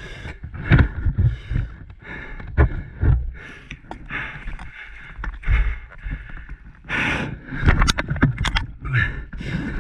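A rider breathing hard, with irregular knocks and scrapes, the sharpest clicks coming in a cluster about eight seconds in.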